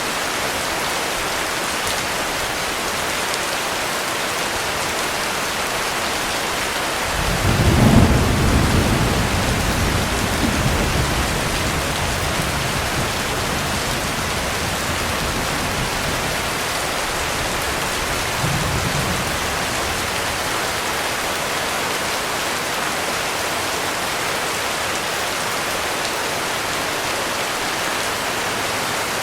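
Heavy rain falling steadily, with a thunderclap about seven seconds in that rumbles on for several seconds and fades, and a fainter rumble of thunder a few seconds later.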